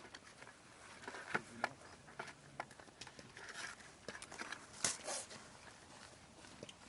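Scattered light clicks and knocks with brief rustles, irregular, the sharpest a little over a second in and just before five seconds.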